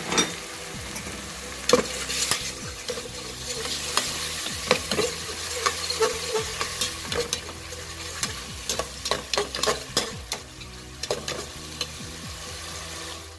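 Chopped onions and ginger-garlic paste sizzling in hot oil in a metal pot while a metal spoon stirs them. The spoon scrapes and knocks irregularly against the pot, over a steady frying hiss.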